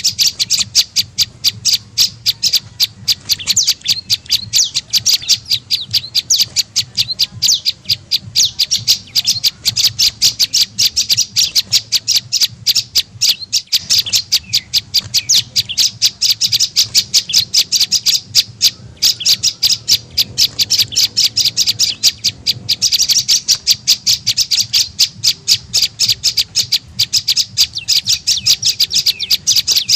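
Prenjak lumut calling: an unbroken, rapid series of sharp high chirps, several a second, the call used as a lure (pikat) to draw in wild birds of its kind. A faint steady low hum lies underneath.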